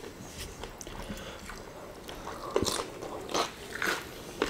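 Close-miked chewing and mouth sounds of people eating rice and fried chicken with their hands, soft wet clicks and bites, with a few louder bites in the second half.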